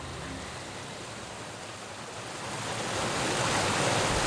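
Steady rush of a waterfall's falling water, growing louder about three seconds in.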